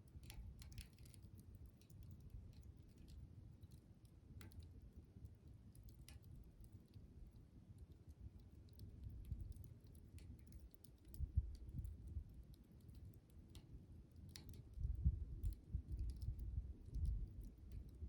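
Wood campfire crackling, with scattered sharp pops and ticks. Under them runs a low rumble that swells in the second half.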